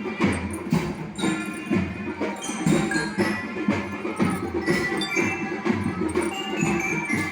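School marching band playing: drums keep a steady beat under a melody on mallet bells.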